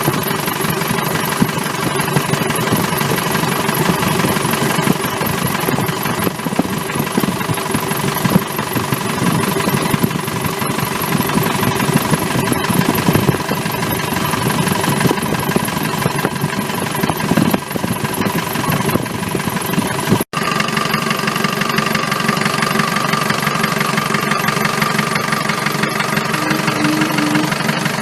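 Isuzu D-Max engine idling steadily with a knocking clatter, apparently running with its valve cover off. About twenty seconds in the sound cuts out for an instant and resumes with a slightly different tone.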